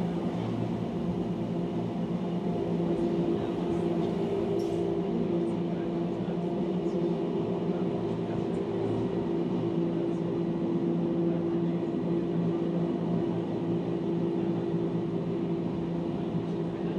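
Electric mountain train of the Wengernalp rack railway running steadily: a constant hum with several steady tones over an even rolling rumble.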